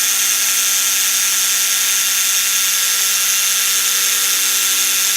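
Electric jigsaw running steadily with a sandpaper-covered blade, sanding the edges of the blade slot in a phenolic resin throat-plate insert to widen it.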